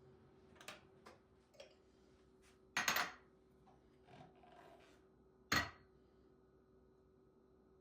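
Household objects being handled and set down: a few light clicks and knocks, with a louder clatter about three seconds in and another sharp knock about five and a half seconds in, over a faint steady hum.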